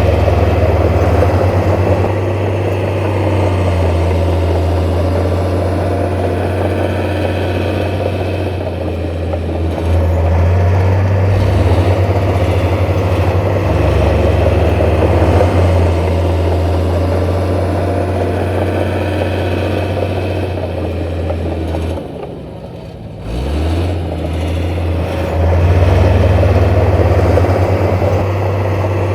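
Heavy diesel engine of earthmoving machinery running steadily with a deep hum. Its load shifts a few times, and about 22 seconds in it drops off briefly before coming back up.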